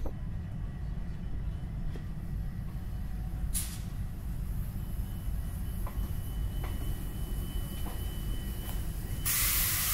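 Indian Railways sleeper-class coach rolling slowly into a station with a steady low rumble of wheels on rail and a few light clicks. A faint thin squeal runs through the middle, and a loud steady hiss starts near the end.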